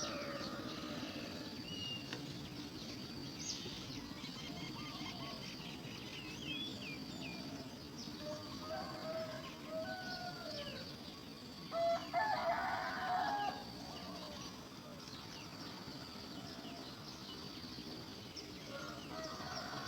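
Outdoor birdsong: various birds chirping and calling over a steady background, with one louder, drawn-out call lasting about a second and a half near the middle.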